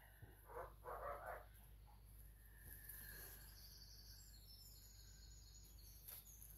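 Near silence, with a few faint short calls from a pet bird in the first second and a half.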